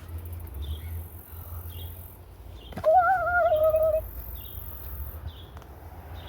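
Small birds chirping, short high chirps repeating every half second to a second over a low outdoor rumble, with a high hiss coming and going. About three seconds in, a louder wavering pitched sound lasts about a second.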